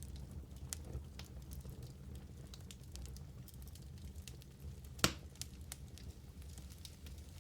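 Wood fire burning in a fireplace: a steady low rumble under scattered crackles, with one sharper pop about five seconds in.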